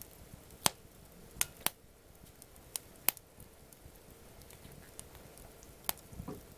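Wood campfire burning, crackling with a handful of sharp, irregular pops over a low steady hiss.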